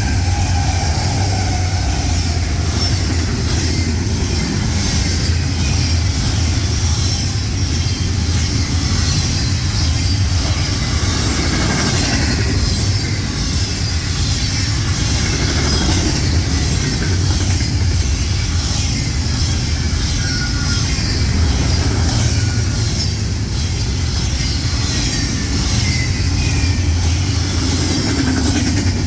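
An intermodal freight train passing, its diesel locomotive and cars making a loud, steady low running noise.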